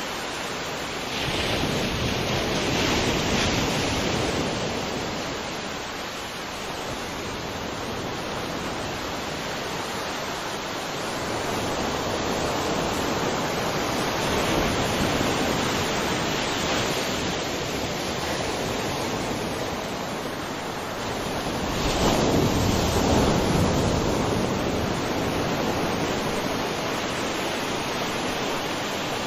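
Sea waves breaking on a shore, a steady wash of surf that swells as a wave comes in, most strongly about a second in and again about 22 seconds in.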